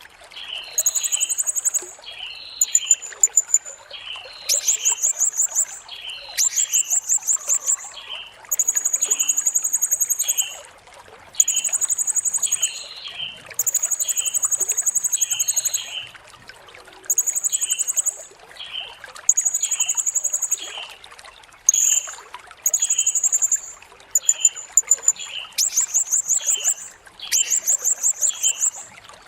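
Blue-crowned hanging parrot (serindit) calling: a run of high, shrill trilled bursts, each about one to two seconds long with short breaks between. Short lower chirps repeat underneath about once or twice a second.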